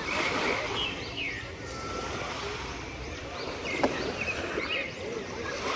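Beach ambience: a steady wash of sea waves and wind, with many short high calls scattered throughout and a single sharp tap nearly four seconds in.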